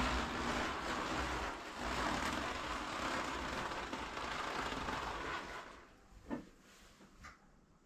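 Freshly rebuilt 1311cc A-series four-cylinder engine running steadily at operating temperature on its first test run, then its sound stops about five and a half seconds in, leaving near silence and a couple of faint clicks.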